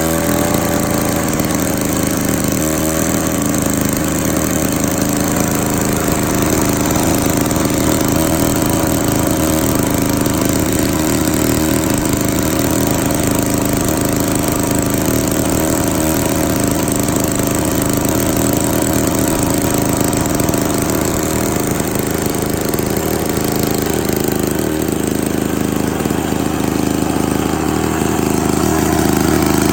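Victa 18 rotary lawn mower engine running steadily, a little louder near the end. The engine has just been started for the first time after sitting, and it caught on the second pull.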